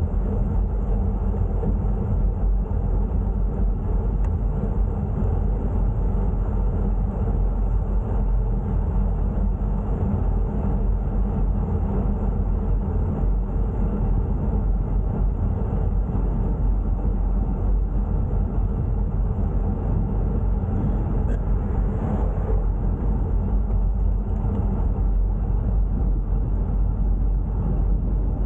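Steady, loud low rumble of wind buffeting a bike-mounted camera's microphone while cycling uphill.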